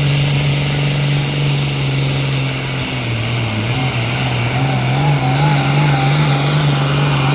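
A pulling tractor's engine running hard and loud and steady. Its pitch dips about three seconds in and then climbs back, and a wavering higher whine rides over it in the second half.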